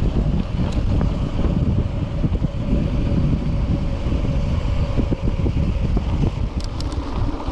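Wind buffeting a ride-mounted microphone over the rumble and rattle of a mountain bike riding a rough, muddy trail, with a faint steady hum underneath and a few sharp ticks near the end.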